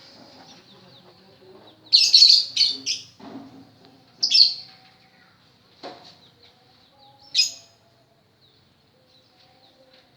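Pet lovebird making loud, sharp, high chirps: a quick cluster about two seconds in, another just past four seconds and a single one about seven seconds in, with soft twittering in between. A young bird practising its song.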